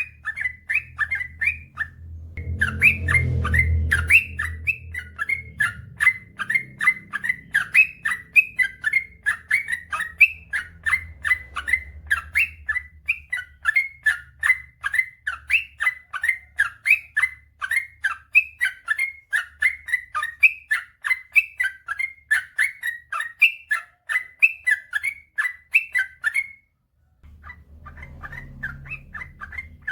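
Yellow-vented bulbul (trucukan) singing a long, unbroken run of quick chirping notes, about four a second, that breaks off briefly near the end. A low rumble sits under the song a few seconds in.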